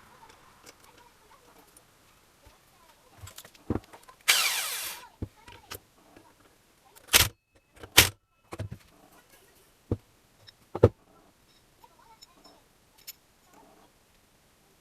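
Tools and metal parts being handled during repair work: a series of sharp knocks and clanks, and a brief rasping, scraping noise about four seconds in.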